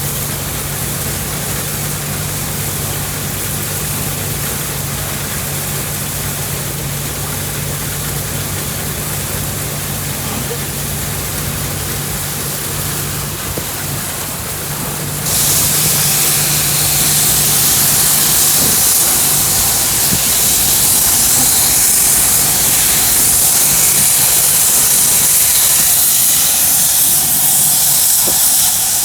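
Threshing rig running with a steady low engine hum; about halfway through, a loud hiss starts suddenly and keeps going.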